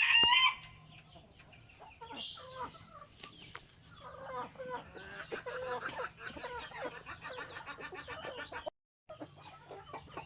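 Backyard hens clucking, a busy run of short calls from about four seconds in, with the loud end of a rooster's crow in the first half-second.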